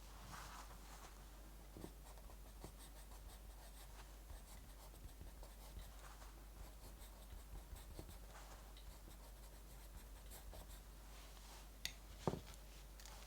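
Quiet writing on paper, soft scratchy pen strokes coming and going, over faint scattered fireplace crackles. A soft knock near the end is the loudest sound.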